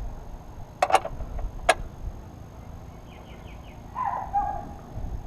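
Two sharp metallic clicks about a second apart, then a quick run of faint chirps and a short call falling in pitch, like a bird.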